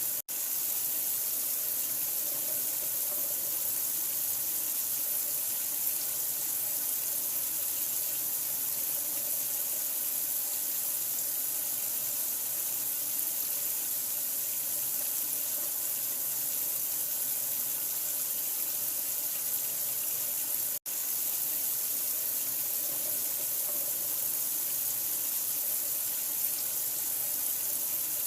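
Steady running water, an even rushing hiss with no change in flow. It drops out for a split second twice, just after the start and about three-quarters of the way through.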